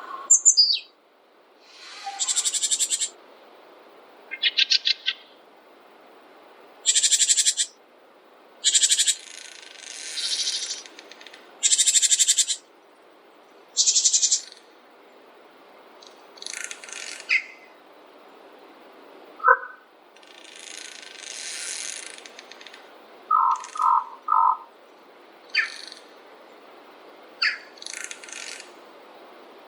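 Small forest songbirds calling and singing in short high-pitched phrases and trills, one after another with short gaps, over a steady faint background hiss.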